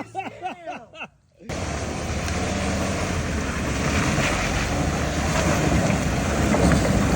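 After a brief voice and a sudden cut, a vehicle engine runs steadily under wind noise on the microphone.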